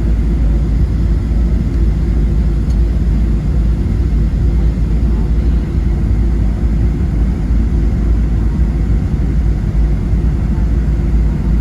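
Steady, loud low rumble of cabin noise inside a Boeing 737-700 airliner, its CFM56-7B turbofan engines running.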